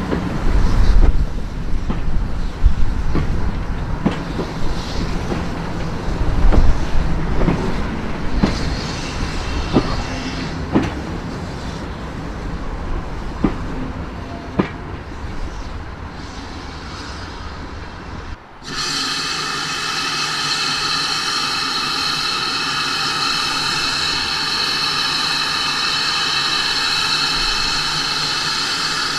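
Passenger coaches rolling slowly past with a low rumble, their wheels clicking over the rail joints. About two-thirds of the way in this stops abruptly and is replaced by a steady, shrill steam note from a steam locomotive, several high tones held without a break.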